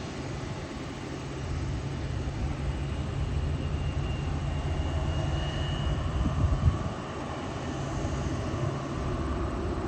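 Jet airliner passing low overhead: a steady low engine rumble that builds to a peak about six to seven seconds in, with a high engine whine in the middle, then eases off.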